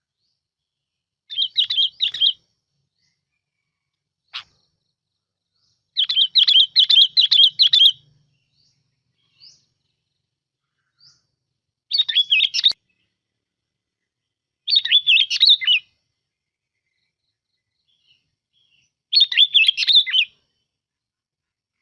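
Sooty-headed bulbul (bông lau) singing: five short, bubbling, warbled song phrases separated by pauses of a few seconds, the longest about two seconds, with one brief note between the first two.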